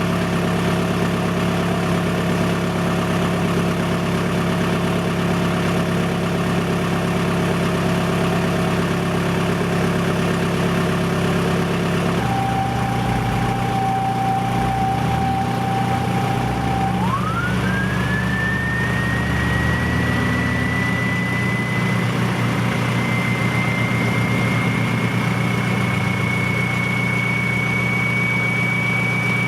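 2000 VW Jetta TDI's 1.9-litre four-cylinder turbodiesel idling through an exhaust with the muffler removed, after a cold start at 18°F with a glow plug fault. About twelve seconds in the engine note shifts lower, and a thin whine appears that jumps up in pitch a few seconds later and keeps slowly rising.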